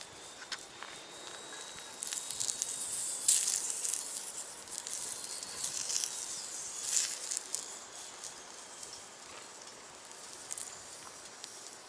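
Hissing and irregular sharp crackles from wood-fire cooking in a small box stove with a skillet, louder from about two seconds in until about eight seconds.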